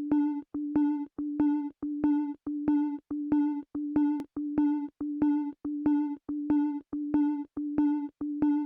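A single synthesizer note pulsing on and off at one steady pitch, about two pulses a second, as the intro of a song.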